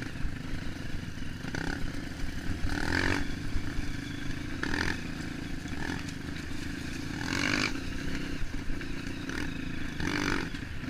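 Off-road motorcycle engine running steadily while riding a dirt trail, with a few short noisy bursts of rattle from the bike and trail every couple of seconds.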